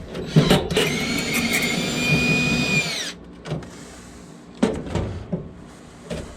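Power drill running for about two and a half seconds, a steady whine that winds down in pitch as the trigger is released, followed by a few sharp knocks.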